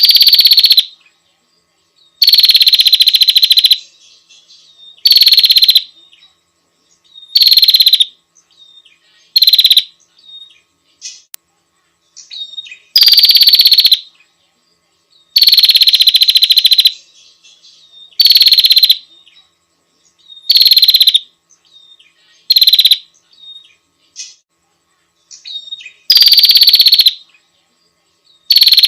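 A female prinia (prenjak) calls over and over in loud, buzzy chattering bursts. Each burst lasts about half a second to a second and a half and comes every two to three seconds, with faint short notes between some of them. It is the female's call to a male.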